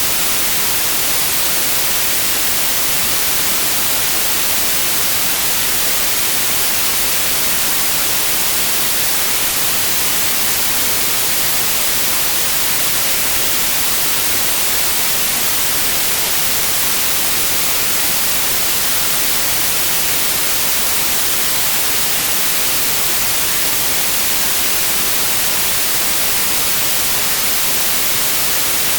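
Steady, unbroken white noise: an even hiss across the whole range, strongest in the highs, with no changes or events.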